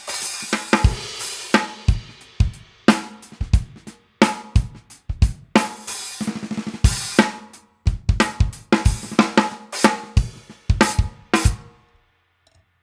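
Drum kit played in a short groove, centred on a 14x6.5 Gretsch Full Range snare with an Evans UV1 head, tuned open and unmuffled so it rings with overtones, together with bass drum, hi-hat and cymbals. The playing stops about a second before the end and the ring dies away.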